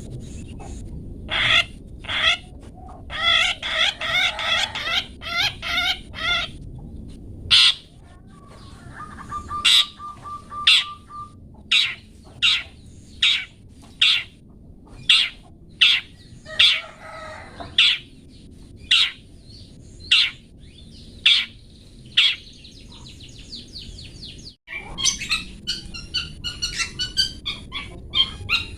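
Long-tailed shrike (cendet) calling: a long series of short, sharp 'toet' calls repeated about once a second, with a patch of rapid trilling near the start. After a brief break near the end it switches to faster, denser chattering.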